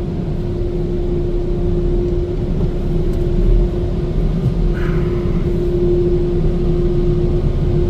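Ryko SoftGloss Maxx car wash dryer blowers running: a steady, loud rush of air with a constant hum.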